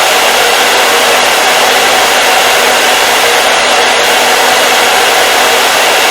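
Hair dryer running steadily: an even, loud rush of blown air over a steady motor hum that does not change.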